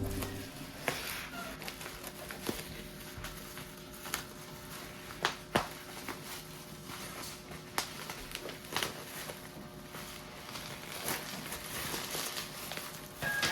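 Faint handling sounds of unpacking in a small room: scattered light clicks and knocks, a dozen or so at irregular intervals, with some soft rustling between them.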